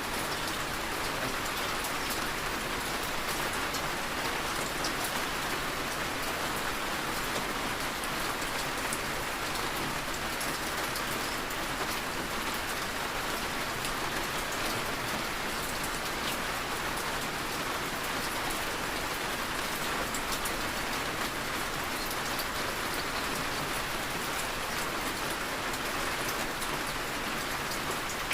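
Heavy rain falling steadily, a constant hiss with fine drop patter throughout and no thunder heard.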